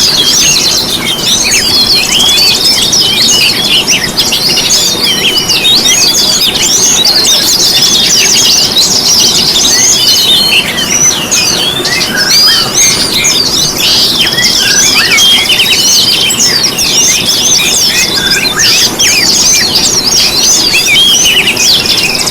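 Dense chorus of many small songbirds twittering and trilling together, a continuous overlapping mass of high, fast chirps.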